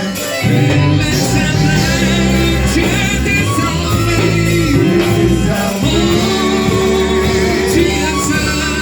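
Loud live church worship music: a band playing steady, held bass notes under singing voices.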